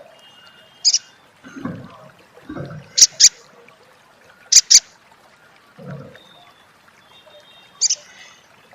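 Sunbird (sogon / sogok ontong) giving sharp, high 'crecet' chip calls, some single and some in quick pairs, a few seconds apart. Softer, low, muffled knocks sound between the calls.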